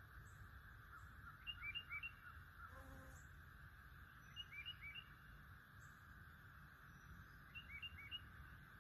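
Faint songbird calling: short, quick rising chirps in groups of three, repeated about every three seconds, over a faint steady hiss.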